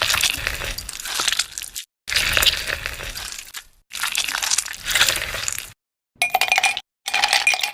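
Crunching and crackling in several bursts, each cut off abruptly into silence, with some clinking in the later bursts.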